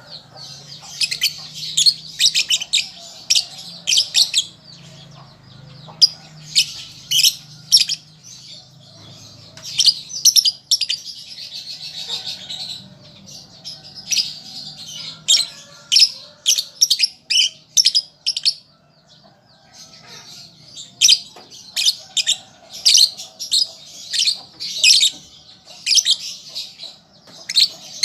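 Young lovebird chattering in clusters of rapid, sharp, high chirps, the halting twitter of a juvenile still learning to sing. There is a pause of about two seconds roughly two-thirds of the way through.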